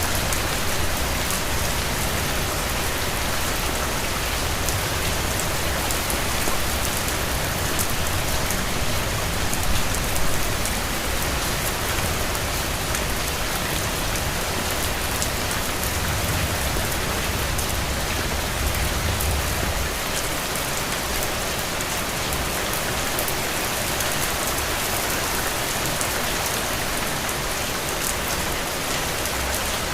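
Steady rain falling on hard surfaces, an even dense patter. A low rumble swells in the middle and drops away about two-thirds of the way through.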